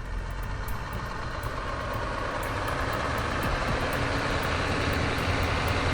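Heavy truck running with a steady rumble, growing gradually louder.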